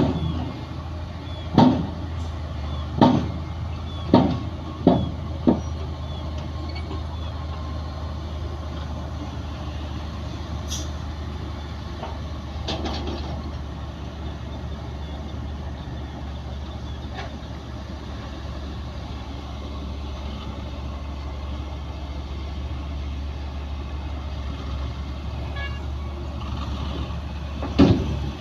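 Heavy diesel earthmoving machinery running steadily, with a series of sharp metallic bangs in the first six seconds and one more near the end.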